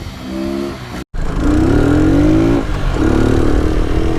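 Motorcycle engine revving under hard acceleration. After a sudden cut about a second in, its pitch climbs, breaks off briefly near the middle as at a gear change, then holds high and steady.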